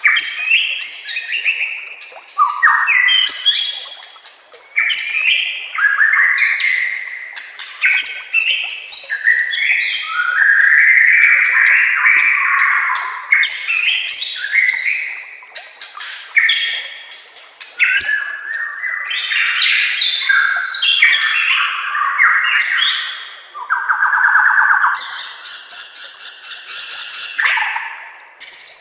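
White-rumped shama (murai batu) in full song: a continuous run of loud, varied phrases, with whistles and slurred notes and a rapid, even trill near the end.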